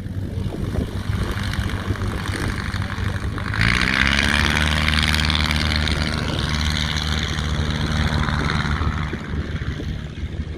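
Propeller aircraft engine running at a low, steady note. About three and a half seconds in, the throttle opens: the pitch rises quickly and it gets louder, holding there for several seconds before easing near the end.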